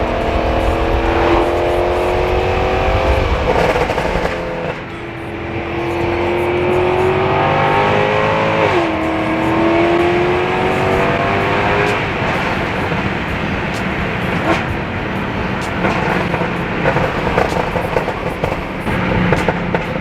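Mercedes C63 AMG's 6.2-litre V8 on a new burble tune, pulling hard with the pitch climbing, dropping at upshifts a few seconds in and again about nine seconds in. It then settles to a steadier drone, with scattered sharp crackles in the second half.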